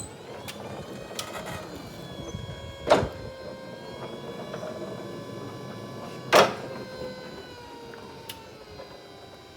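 Linde E20 electric forklift running, its electric motors whining steadily, with two loud clunks about three and six and a half seconds in. The whine slides down in pitch near the end as the motor slows.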